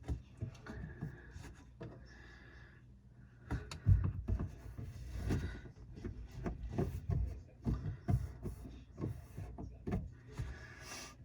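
Hand work on tools and parts: irregular knocks, clicks and rubbing, getting busier from about three and a half seconds in, with one sharper knock just after that, over a low steady hum.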